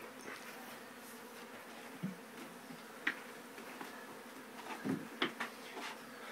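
Honeybee colony buzzing in a steady hum, with a few soft knocks and taps about two, three and five seconds in.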